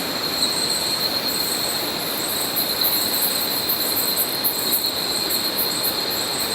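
A colony of oilbirds screaming in a cave: a dense, continuous din of harsh, shrill screeches.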